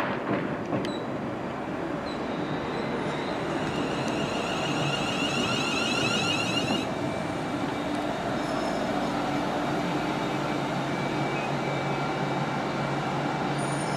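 London Northwestern Railway Class 350 Desiro electric multiple unit pulling into the platform, its wheels and running gear making a steady rumble as the carriages roll past slowly. A faint high whine comes and goes in the middle.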